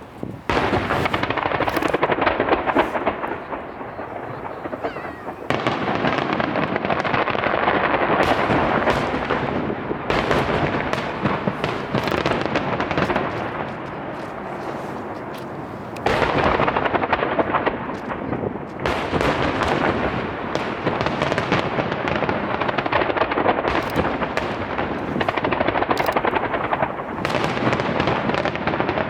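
A fireworks barrage of aerial shells and a starmine, one burst after another with no gap. The booms and crackles overlap into one continuous rumble that starts suddenly and swells again about five seconds in and again past the midpoint.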